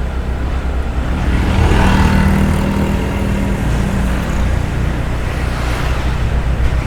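Road traffic: a motor vehicle passes, its engine swelling about one and a half seconds in and fading after about four seconds, over a steady low rumble.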